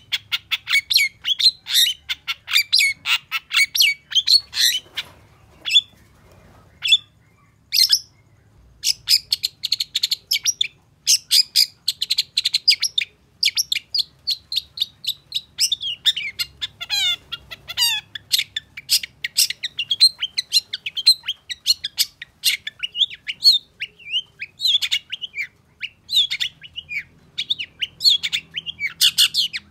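Long-tailed shrike singing a fast, busy stream of sharp chattering and chirping notes, with a short lull of scattered single notes about five seconds in before the rapid song resumes.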